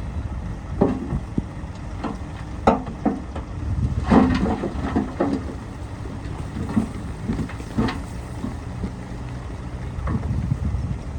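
Bulldozer engine running with a steady low rumble, broken by irregular metallic clanks and knocks as it works soil.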